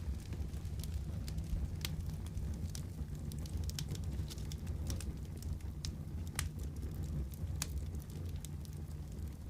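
Fireplace fire crackling, with irregular sharp pops and snaps, a few a second, over a steady low rumble.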